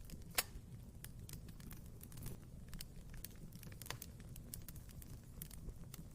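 Wood fire burning in a fireplace, crackling with irregular pops and snaps over a low steady rumble; one sharp pop about half a second in is the loudest.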